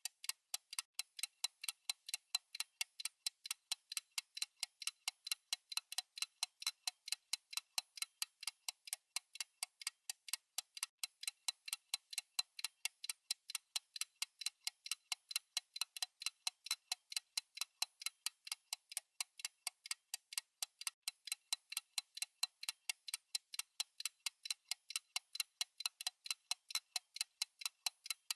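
Clock tick-tock sound effect of a countdown timer: fast, even ticking at several ticks a second, thin and clicky with no low end.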